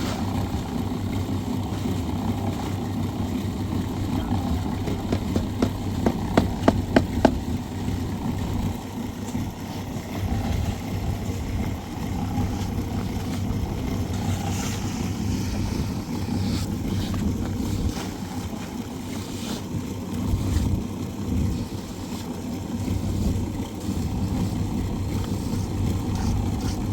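A small engine runs steadily. About six seconds in there is a quick run of about six sharp knocks.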